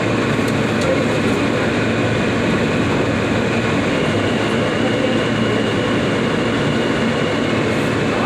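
New York City subway F train running between stations, a steady rumble and rattle of the car in motion, with a faint high steady whine that joins about halfway.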